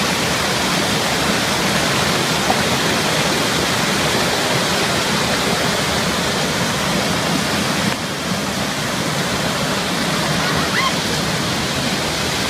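Waterfall: a loud, steady rush of falling water, dipping slightly about two-thirds of the way through.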